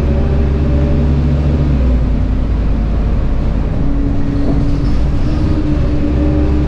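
Scania K230UB bus's DC9 five-cylinder diesel engine and ZF automatic gearbox running under way. The engine note drops back about two seconds in, and a new steady, slightly rising tone comes in about four seconds in, like the engine pulling in a new gear.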